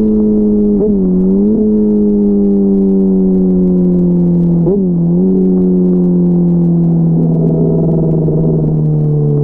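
Inline-four sport motorcycle engine running at freeway speed, its pitch slowly easing down, with brief dips and recoveries about a second in and just before the five-second mark, over steady wind and road rumble.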